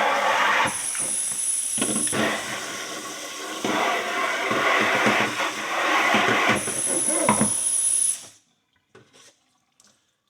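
Water running in a steady rushing stream, likely rinsing out the bleach container, cut off abruptly about eight seconds in; a few faint knocks follow.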